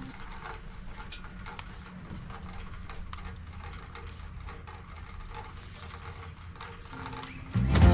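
Faint, irregular light clicking from woven shrink-wrap banding and its ratchet buckle being worked, over a steady low hum.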